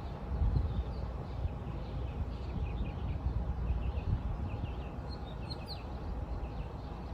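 Small birds chirping and calling, with many short, high chirps throughout and a brighter run of calls about five seconds in, over a steady low rumble.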